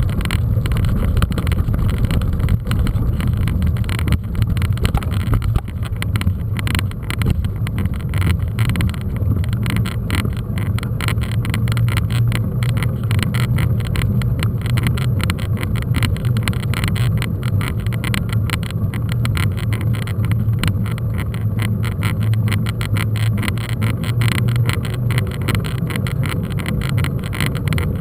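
Steady low rumble of wind on the microphone and tyres on a dirt track while riding a mountain bike, with constant small rattles and crackles.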